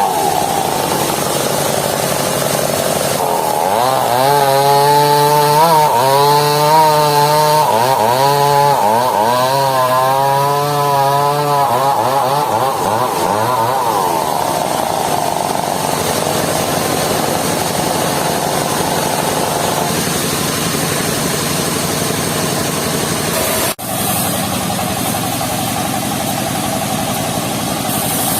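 Engine-driven circular saw of a mobile sawmill running continuously. From about four to fourteen seconds in, a pitched whine wavers up and down, typical of the blade cutting through a log. There is a brief dropout in the sound near the end.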